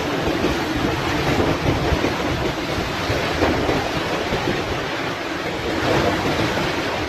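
Heavy hurricane rain and strong wind: a steady, loud rush of noise with gusts buffeting the microphone in a low, uneven rumble.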